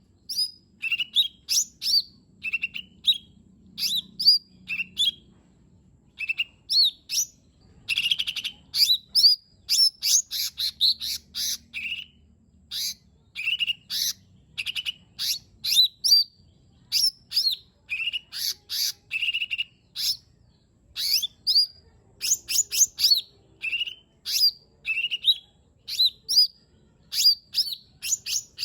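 Cucak ijo mini (a small leafbird) singing a fast, almost unbroken run of short, sharp, high chirps and whistled notes, many flicking upward, with only brief pauses.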